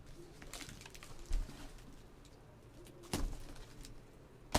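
Cardboard shoebox and packaging being handled, with a few scattered knocks and rustles; the sharpest click comes near the end. A bird calls faintly in the background.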